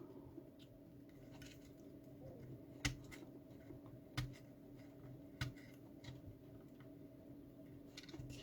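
Faint clicks and ticks of a small tool working at a terminal pin in a plastic fuse box connector, with three sharper clicks a little over a second apart, over a faint steady hum.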